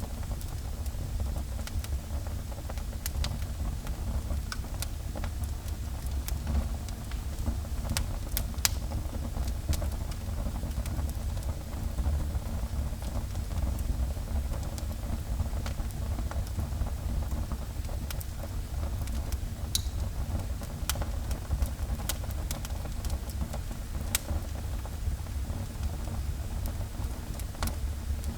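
Wood fire burning in a fireplace: a steady low rumble with sharp crackles and pops scattered through it, two of the louder pops close together about eight seconds in.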